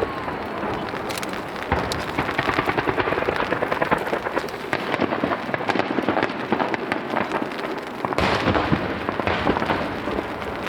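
Starmine fireworks barrage: a dense, continuous mass of crackling and popping shell bursts fired in rapid succession, swelling again about eight seconds in.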